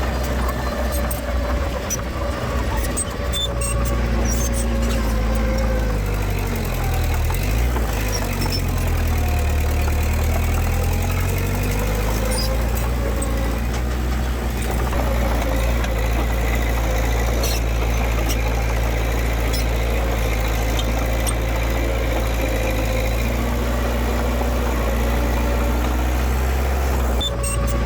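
Diesel engine of heavy earthmoving machinery running steadily, its pitch rising and falling briefly between about six and twelve seconds in.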